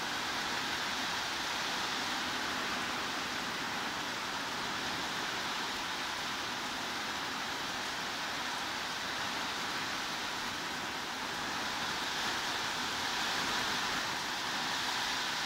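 Heavy rain falling steadily, an even hiss with no change in level.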